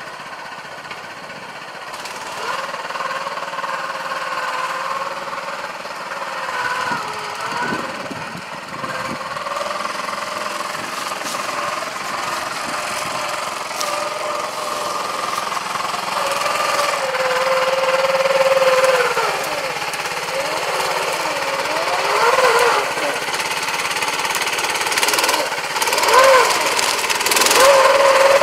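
Small 6.5 hp Honda-clone single-cylinder engine driving a converted Farmall tractor, running with its pitch rising and falling as the revs change, growing louder toward the end.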